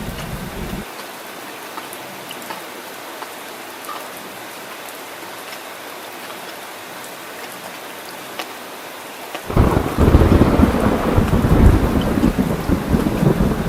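Steady rain falling, with a low rumble of thunder that cuts off abruptly just under a second in. A loud peal of thunder starts suddenly about two-thirds of the way through and keeps rumbling over the rain.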